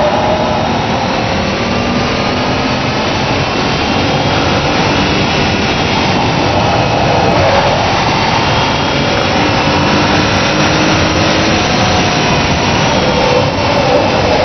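Mazda Xedos 6's 2.0-litre V6 pulling hard under full load, its note rising slowly as the revs climb from about 4,000 to 6,000 rpm. A steady rushing noise runs beneath it.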